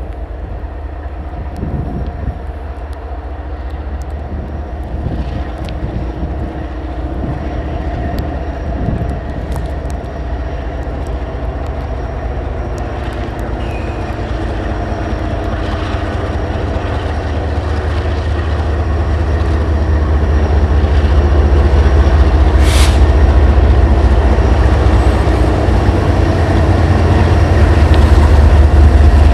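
Diesel freight locomotives working in a rail yard, their engines running under load and growing steadily louder as they draw closer. Scattered knocks from the train sound in the first several seconds, and a short hiss of air comes about two-thirds of the way through.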